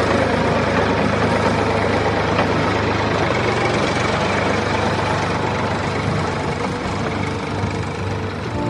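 An engine idling steadily with a low hum, easing slightly quieter toward the end.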